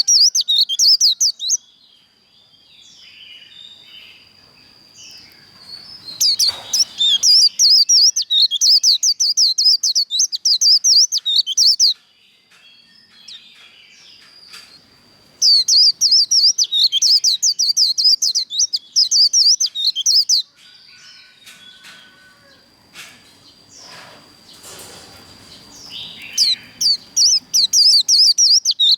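White-eye (vành khuyên) singing its rapid chattering 'líu' song in four bursts of several seconds each, with short pauses between. During the pauses a faint steady high tone and a few scattered chirps can be heard.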